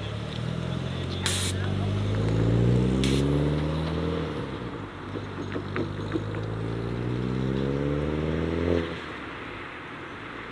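A modified car pulling away under acceleration. Its engine pitch rises steadily, drops back at a gear change about halfway through, climbs again in the next gear, and cuts off sharply as the driver lifts off near the end.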